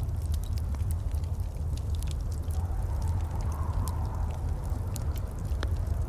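Wood fire crackling over a steady low rumble of burning, with scattered sharp pops and one louder pop near the end.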